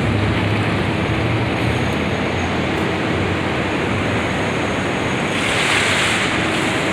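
Steady roar of city street noise, traffic mixed with wind rushing over the microphone, with a short louder hiss swelling near the end.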